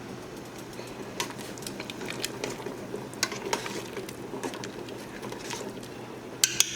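Scattered light clicks and taps over a steady low hum, with two sharp clicks near the end.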